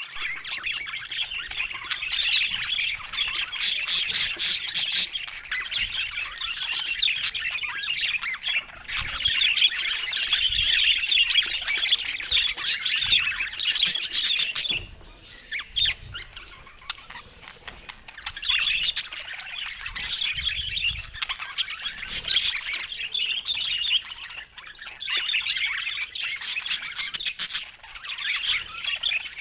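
Budgerigars chattering: a continuous stream of chirps and squawks, with a quieter lull about halfway through.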